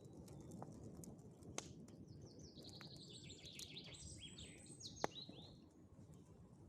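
A small songbird singing a rapid twittering phrase of short falling notes for about three seconds in the middle, over the faint crackle of a campfire with scattered pops, the sharpest pop coming about five seconds in.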